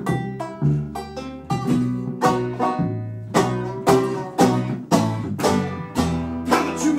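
Instrumental break of an acoustic bluegrass-style song: a banjo picking quick, fast-decaying notes over acoustic guitar, with no singing.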